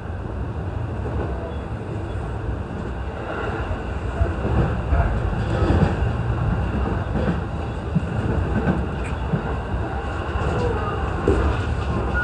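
E233-series electric train running on the line, heard from inside the front car: a steady rumble of wheels on rail that grows louder about four seconds in, with occasional short clacks from the track.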